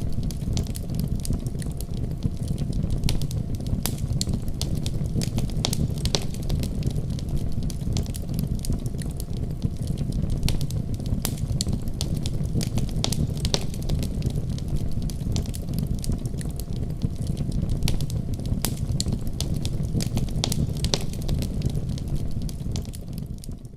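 Wood fire crackling in a fireplace: frequent sharp pops and snaps over a steady low rumble, fading out near the end.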